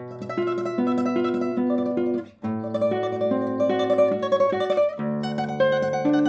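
Solo classical guitar playing a rapid tremolo melody over bass notes. There are short breaks between phrases near the start and at about two seconds in, and a lower bass note comes in about five seconds in.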